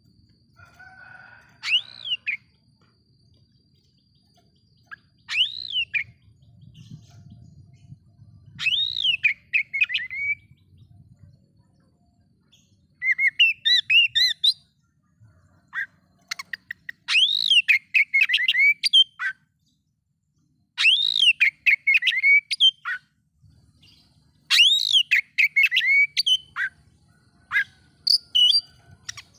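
Oriental magpie-robin (kacer) singing in repeated phrases of loud, sweeping whistled notes and quick runs, one phrase every few seconds, with short gaps between. It is the kind of heated song that is played to stir other magpie-robins into singing.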